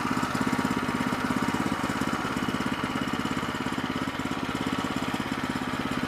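Small gas engine of a Woodland Mills HM122 portable sawmill running steadily, with a fast, even firing beat that holds one speed.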